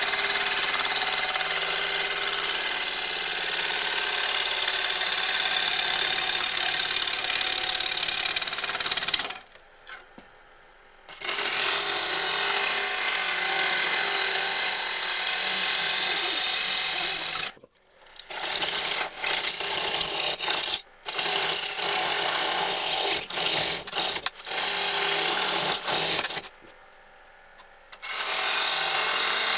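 Bowl gouge cutting a spinning cherry bowl blank on a wood lathe: a loud, rough, steady rasp of shavings coming off the wood. It stops for about two seconds some nine seconds in and again near the end, and comes in short starts and stops in between as the tool goes on and off the wood.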